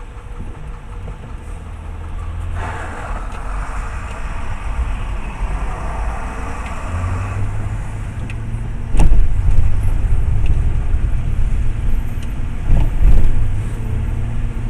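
Car in motion heard from inside the cabin: a steady deep rumble of road and engine noise, with a sharp knock about nine seconds in and louder swells near the end.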